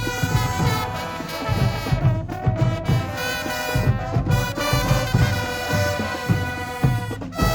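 High school marching band playing: brass horns over regular drum hits, settling into a held brass chord near the end.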